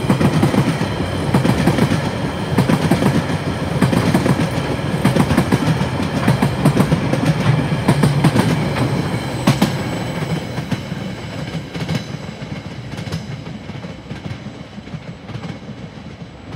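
Wagons of a freight log train rolling past, their wheels clattering over the rail joints with sharp clicks. After about ten seconds the last wagon goes by and the rumble fades away as the train moves off.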